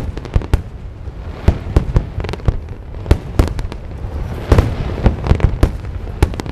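A fireworks display: many shells bursting with sharp irregular bangs, several a second, over a continuous low rumble of further explosions. A denser, louder cluster of bursts comes about four and a half seconds in.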